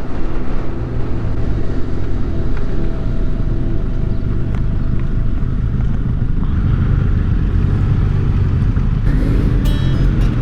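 Benelli 502C motorcycle's parallel-twin engine running steadily at road speed, with low wind rumble on the microphone.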